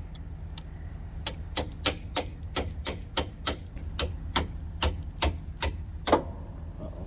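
Rapid series of hammer blows, metal on metal, on the seized, rusted pin of a Fontaine No-Slack II fifth wheel, about three strikes a second, stopping about six seconds in.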